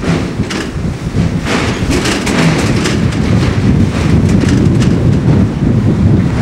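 Windstorm blowing through an abandoned building: a loud, gusting low rumble of wind, with many short knocks and rattles scattered through it.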